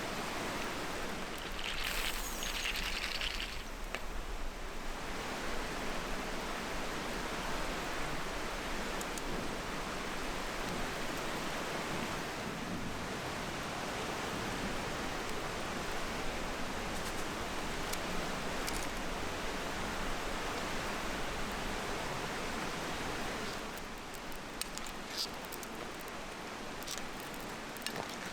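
Steady sizzling hiss of fish simmering in a cast-iron frying pan over a wood fire. It eases off near the end, leaving scattered crackles.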